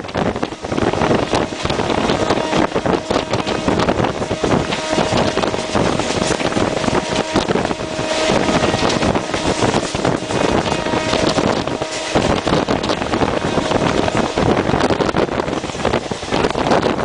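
Express passenger train passing at speed close by: a steady rush and rattle of coaches, with wheels clattering rapidly over the rail joints and wind buffeting the microphone. A faint steady whine rises above the noise for several seconds in the middle.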